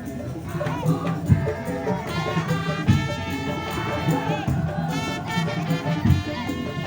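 Tong-tong parade band playing loud percussion-driven music: a steady pattern of heavy drum beats with a few sharp accented hits, under a bright melodic line that comes forward in the middle.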